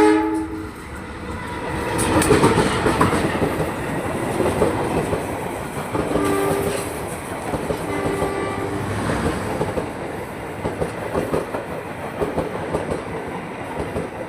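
A train passing close by, its wheels running on the rails in a steady loud rumble, with two short horn blasts about six and eight seconds in.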